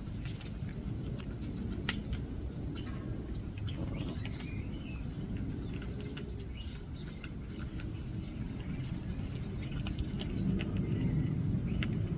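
Outdoor background: a steady low rumble with faint, high small-bird chirps through the middle and a few sharp clicks.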